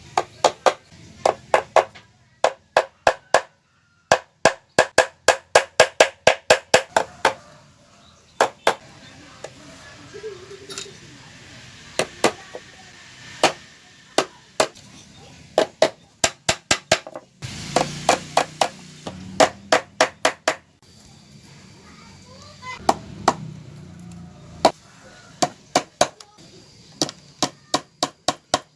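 A hammer striking wood in quick runs of sharp blows, about three to four a second, each with a short ring, separated by brief pauses.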